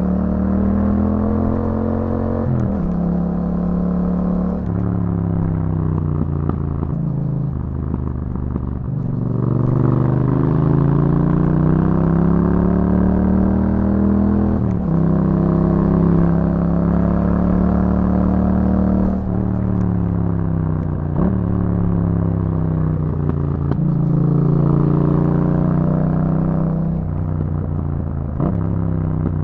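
2021 Yamaha MT-07's parallel-twin engine running through an Akrapovic aftermarket exhaust while riding. The pitch rises and falls with the throttle, broken by sudden jumps several times as the gears change.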